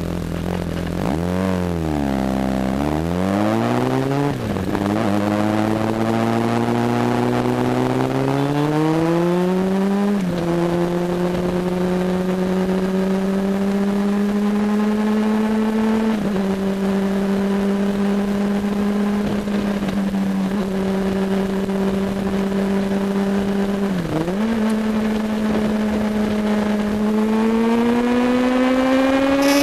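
Honda CBR sport bike engine at track pace, heard on board. The engine note drops as it is shifted down at the start, then climbs through the gears with quick upshifts about four and ten seconds in. It holds at high revs with a short sharp dip about three-quarters of the way through, then rises again near the end.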